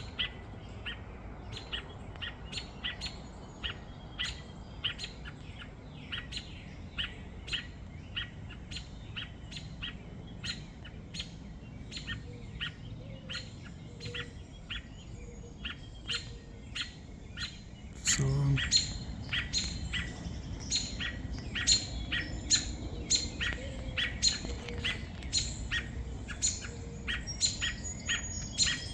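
Robin giving short, sharp calls over and over, about one to two a second, which the uploader hears as crying after a crow took its two nestlings. About eighteen seconds in, the calls get louder and come faster.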